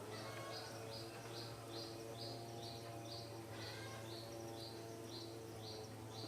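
A bird repeating one short, high chirp about two and a half times a second, each note dipping slightly in pitch, over a steady low hum.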